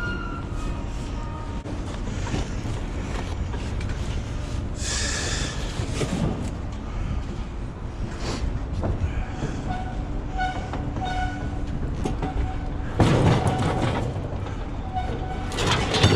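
Scrap metal clanking and scraping over a steady low machinery rumble, with brief metallic ringing. The loudest clatter comes about 13 seconds in.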